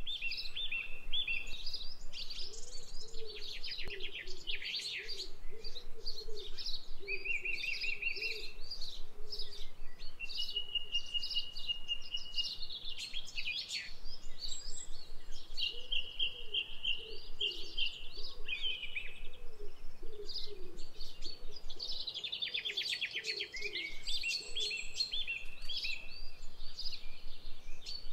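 A chorus of several birds singing and calling together, with fast trills, held whistled notes and chirps overlapping, and a lower, repeated call running underneath for much of the time.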